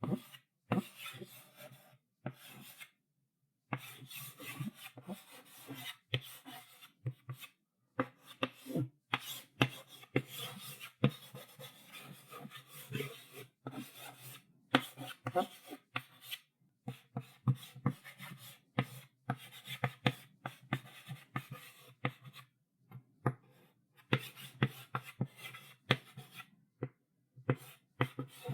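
Chalk writing on a blackboard: irregular scratchy strokes and taps of the chalk against the board, in runs with short pauses between them.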